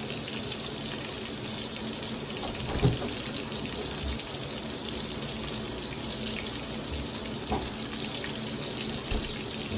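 A steady rush of water noise in a kitchen, with a few light knocks of kitchenware, the loudest about three seconds in.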